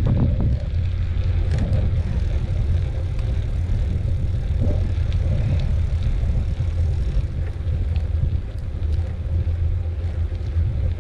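Wind buffeting the microphone of a moving mountain bike rider, a steady low rumble with a few faint clicks.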